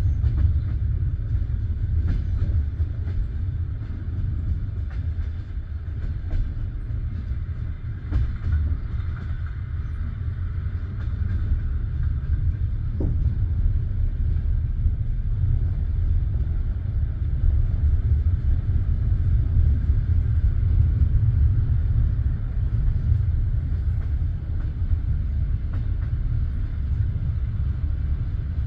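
Steady low rumble of a passenger train carriage, with a few faint clicks.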